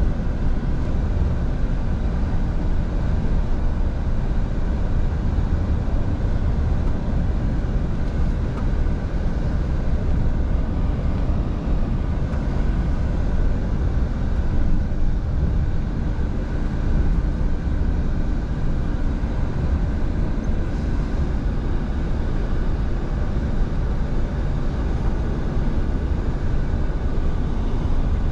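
Scania V8 truck on the move, its engine running at a steady low pitch under tyre and road noise.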